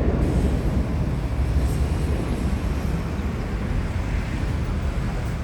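Jet engine rumble from a departing Boeing 767-300 freighter, a steady low noise that slowly fades as the aircraft climbs away.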